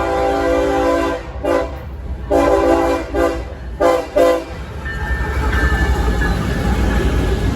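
Diesel locomotive's multi-chime air horn sounding as a train approaches. A long blast ends about a second in, then several short, broken blasts follow. After that comes the steady rumble and rattle of the passing double-stack intermodal train.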